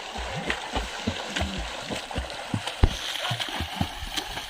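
Water splashing and sloshing, with irregular low bumps and a few sharp clicks on the microphone.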